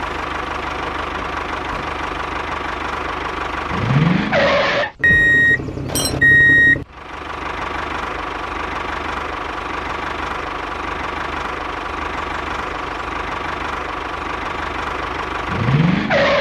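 A small engine running steadily. About four seconds in, a rising swoop leads into a break where the engine noise drops out and two short, high beeps sound; the engine then runs steadily again, and another rising swoop comes near the end.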